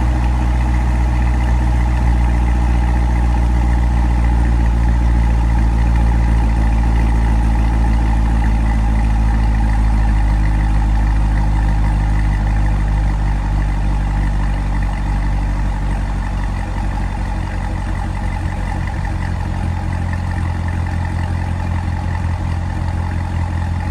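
2017 Corvette Stingray Z51's 6.2-litre LT1 V8 idling through its exhaust after a cold start, in Track mode. The idle settles a little lower and quieter about halfway through, as the engine comes down from its cold fast idle.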